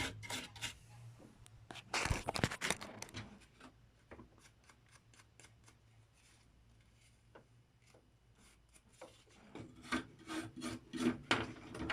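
A small brush scrubbing a circuit board with thinner to clean off corrosion, in quick repeated strokes. The strokes come in bursts at the start and again near the end, with a quieter pause in between.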